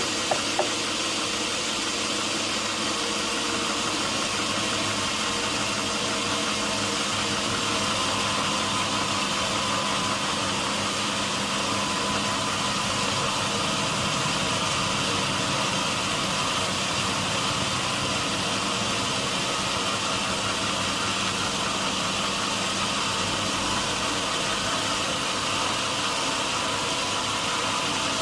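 Sawmill machinery running steadily: an even mechanical drone with a few constant tones and no change in pitch or level.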